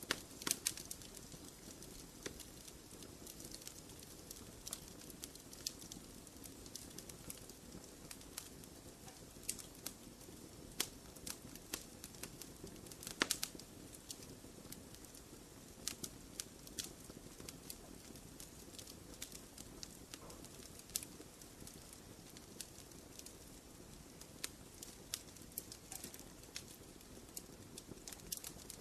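Wood fire crackling: irregular sharp pops and snaps over a low, steady rush of flames, with louder pops just after the start and about thirteen seconds in.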